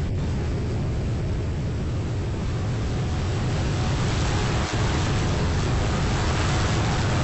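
Boat underway: a steady low rumble with rushing water and wind noise over it.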